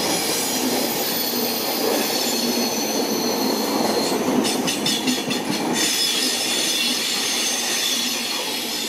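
Express train coaches rolling past close by on a curve: a steady wheel-on-rail rumble with a thin high-pitched wheel squeal over it. About halfway through comes a quick run of clicks as the wheels cross rail joints, roughly five a second.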